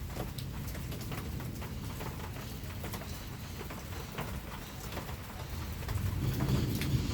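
Steady rain falling, with scattered single drops ticking close by over a low continuous rumble that swells briefly near the end.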